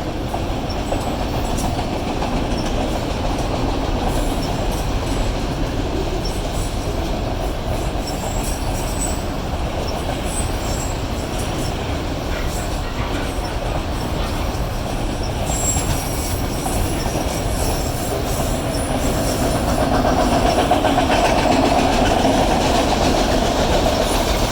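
Autorack freight cars rolling past close by: a steady rumble of wheels on rail. About two-thirds of the way through, thin high-pitched wheel squeal joins in.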